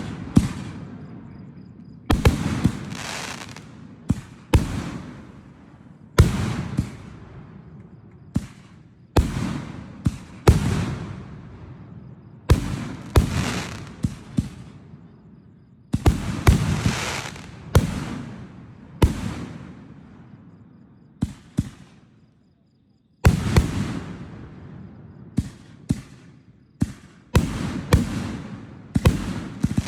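Fireworks display: a long irregular series of sharp bangs from bursting fireworks, one every second or two, each trailing off over about a second. The sound drops out completely for about a second, around 22 seconds in.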